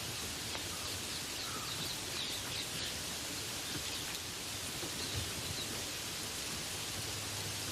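Steady rain falling, with birds chirping over it: a run of short high calls in the first few seconds and a few more about five seconds in.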